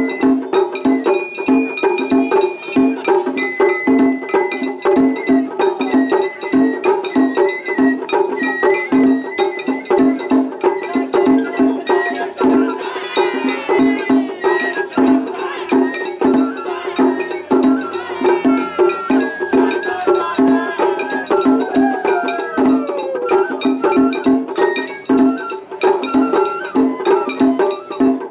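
Japanese festival hayashi music: a high bamboo flute playing held notes over a steady, fast beat of drums and a small hand gong.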